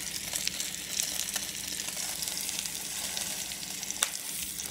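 Plant-based Beyond Burger patty and Beyond Sausage sizzling in oil in a nonstick frying pan, with small crackles throughout and one sharper click about four seconds in.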